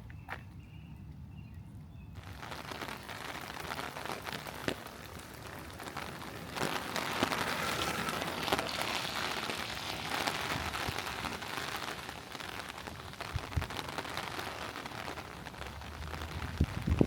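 Rain falling steadily, with many fine drop hits. It sets in about two seconds in and is heaviest in the middle.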